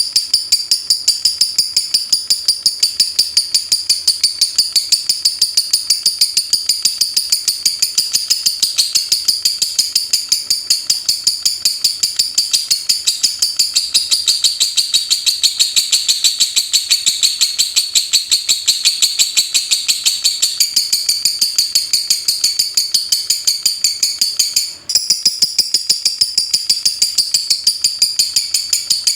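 A lovebird singing in the rapid 'ngetik' style: a long unbroken string of sharp, high-pitched ticking chirps, about five a second, with one brief pause near the end.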